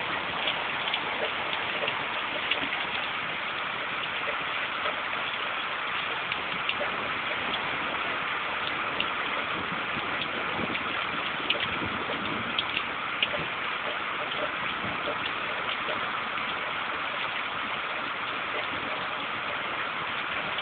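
Steady rain pouring down, an even hiss with scattered sharp ticks of drops striking nearby surfaces.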